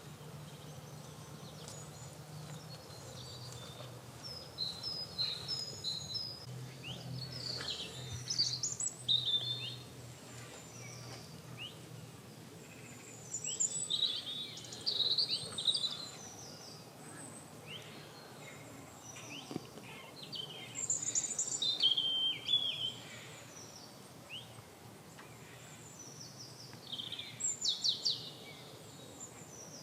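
Spring chorus of several garden birds singing and calling at once: overlapping high chirps, trills and short whistled phrases, some notes repeated in quick series. A low steady hum runs underneath for roughly the first half, then fades.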